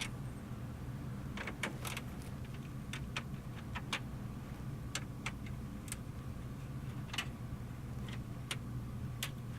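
Scattered light clicks and taps of a hand tool working the 8 mm retaining screws out of a plastic dashboard bezel, over a steady low hum.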